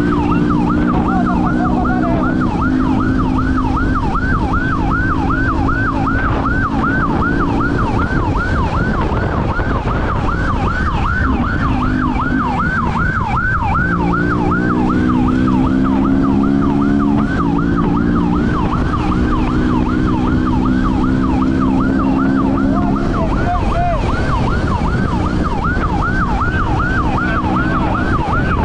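Police siren on a fast yelp, rising and falling about four times a second, over constant road and wind noise. A lower steady drone runs beneath it and drops out for several seconds in the middle.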